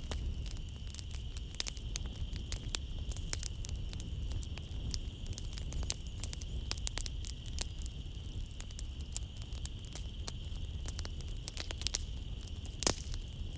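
Wood fire in a fireplace crackling with a constant scatter of small snaps and one louder pop near the end, over a low rumble. A steady high-pitched hum of night-time nature sounds runs behind it.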